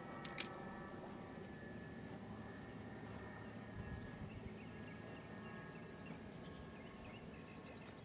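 Faint outdoor ambience with distant bird calls, and a single sharp click about half a second in.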